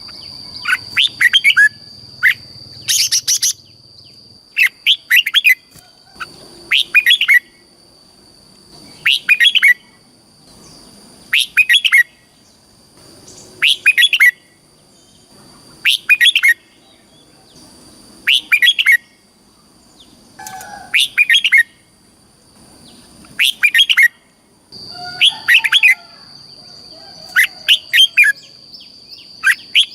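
Red-whiskered bulbul singing loud, short chirpy song phrases, one about every two seconds, over a steady high-pitched tone that fades out partway and comes back near the end.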